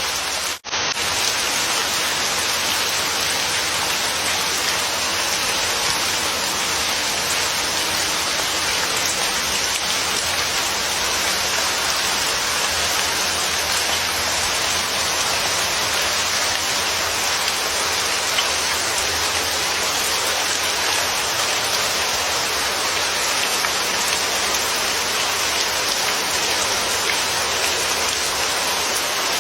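Steady rain falling, an even hiss with no pauses except a brief dropout about half a second in, where the recording is spliced.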